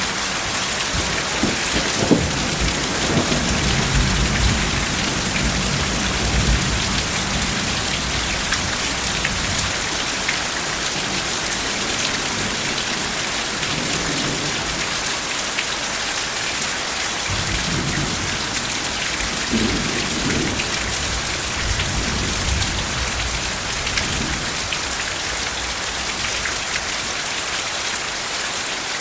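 Steady heavy rain falling. Soft low rolls of thunder come near the start and again past the middle.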